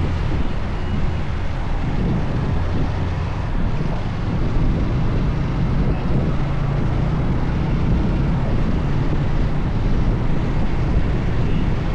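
Steady wind rush on the microphone over a motorcycle engine running at an even speed, as heard while riding.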